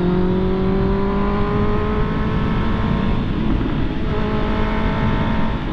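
Honda CB650R inline-four engine running under steady throttle, its note rising slowly over the first two seconds and then holding, with a brief break in the note about three and a half seconds in. Wind and road noise rush underneath.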